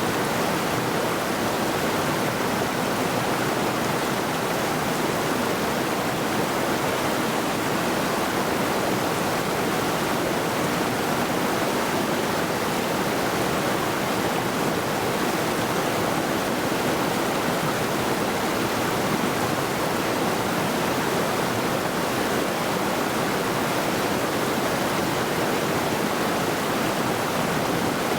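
Mountain river rushing steadily over rocks, a constant even roar of water.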